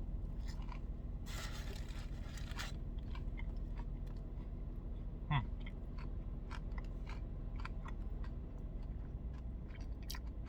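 A bite into a crispy fried chicken sandwich, with a loud crunch of the extra-dry breading about a second in, then close-up chewing with many small crunching clicks.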